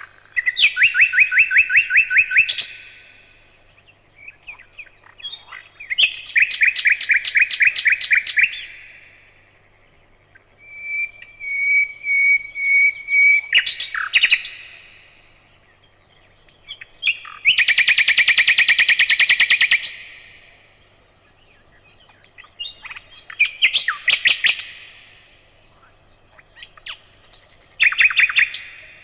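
Nightingale singing in separate loud phrases of about two seconds each, mostly fast runs of repeated notes, one built on a long drawn-out whistle, with pauses of two or three seconds between phrases.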